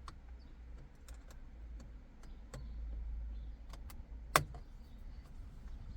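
Scattered small clicks and taps of a pick tool and fingers working plastic retaining clips behind a steering wheel, with one sharp, louder click about four and a half seconds in.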